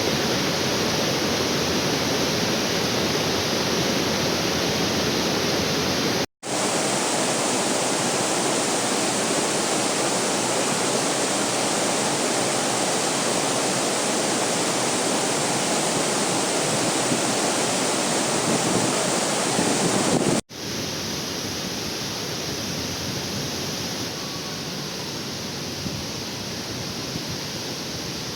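Steady rushing of a waterfall. It breaks off for an instant twice, about six seconds in and about twenty seconds in, and is a little quieter after the second break.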